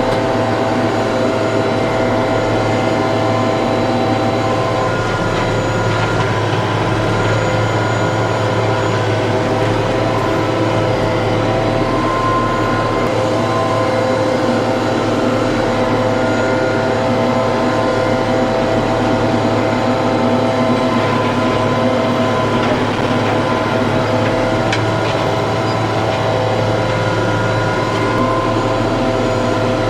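TYM T654 tractor's diesel engine running at a steady speed: a constant low hum with several steady whining tones that drift slightly in pitch.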